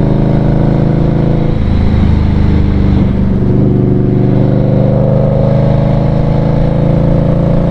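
Indian Scout Bobber 20's V-twin engine running steadily under way, its pitch stepping briefly about one and a half and three seconds in.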